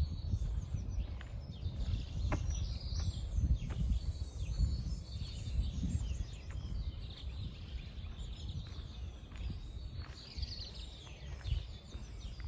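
Small birds chirping and twittering over a low, uneven rumble on the microphone.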